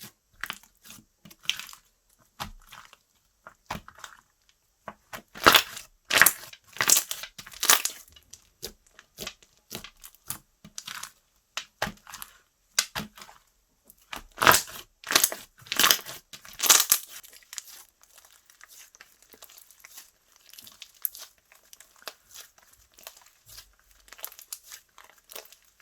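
Slime being squished, poked and stretched by hand, giving a run of crackly clicks and pops. The clicking comes in two louder flurries, about a quarter of the way in and again a little past halfway, with softer scattered pops between.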